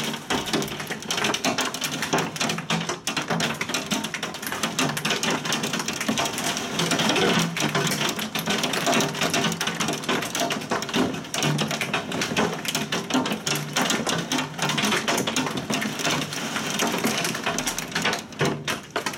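Heavy rain mixed with hail pelting down on hard surfaces: a dense, steady rattle of countless small impacts with no let-up.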